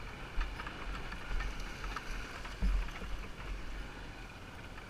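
Motorbike riding along, with wind buffeting the microphone in an uneven low rumble over faint engine noise.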